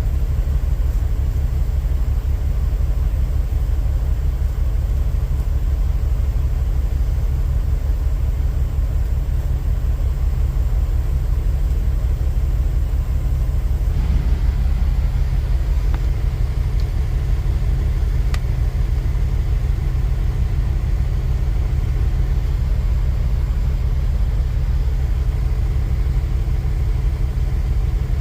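Semi-truck diesel engine running, a steady low rumble with a fine even pulse and a faint hum above it.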